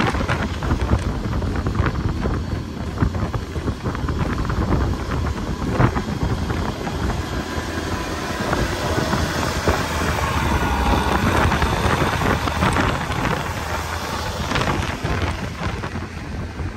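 Strong blizzard wind buffeting the microphone: a heavy low rumble that rises and falls in gusts.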